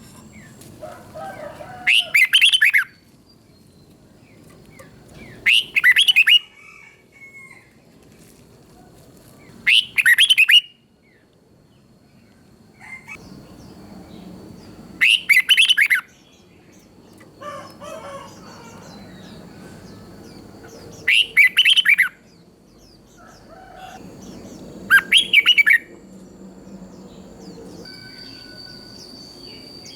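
Red-whiskered bulbul singing: six short, loud song phrases, each about a second long, coming every four to six seconds.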